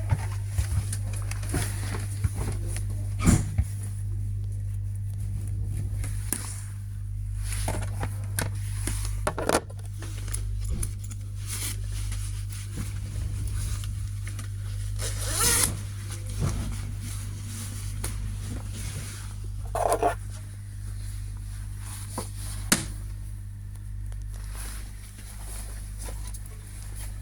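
Steady low hum of a passenger train heard from inside the carriage, with a faint high whine. Short rustles and clicks of clothing or a bag being handled close by come and go over it, the loudest around the middle.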